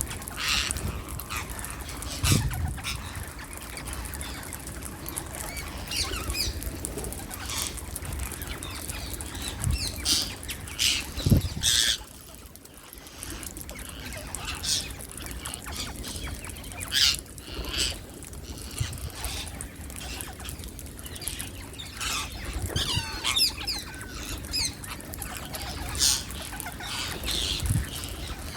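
A flock of rose-ringed parakeets calling with short, high screeches again and again, with wing flapping now and then. There is a brief lull about twelve seconds in.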